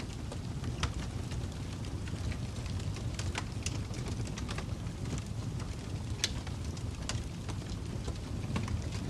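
Fire crackling: a steady low rumble with irregular sharp pops and snaps, the loudest pop about six seconds in.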